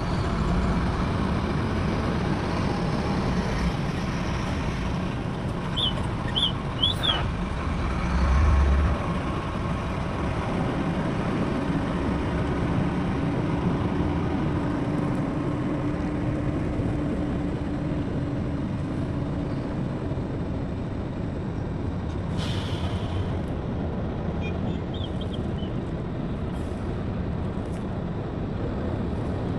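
Heavy diesel engines of dump trucks and an excavator running steadily, with a louder low surge about eight seconds in and a short hiss a little after twenty seconds.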